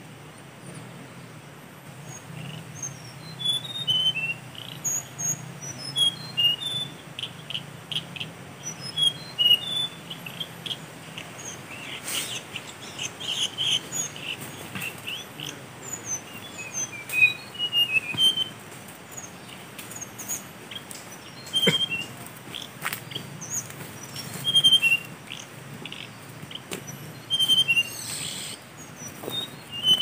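Small birds calling with short, high chirps, often in quick falling runs of a few notes, repeated every second or two, with a few sharp clicks among them.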